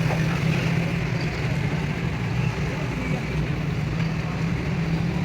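Steady low machine hum, like a motor or engine running continuously.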